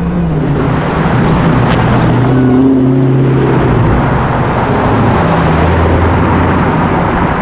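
A car engine running loudly, its pitch climbing to a peak about two and a half seconds in and falling back lower after about five seconds, over steady street traffic noise.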